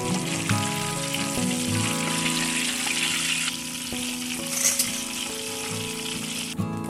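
Chunks of pork deep-frying in a pan of hot oil: a dense, steady sizzle that weakens about halfway through. Background music with a melody and a regular beat plays throughout.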